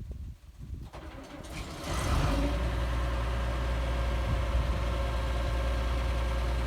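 A vehicle engine comes up over the first two seconds and then runs steadily with a strong, deep drone.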